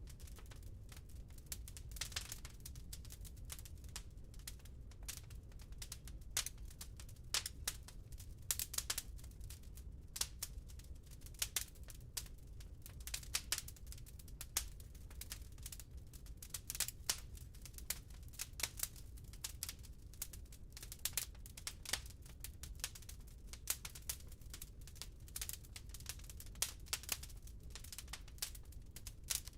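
Wood burning in a fireplace: irregular sharp crackles and pops, several a second in clusters, over a steady low rumble of the fire.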